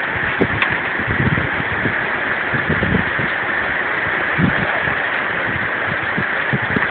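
Heavy thunderstorm rain falling steadily, with wind gusts buffeting the microphone.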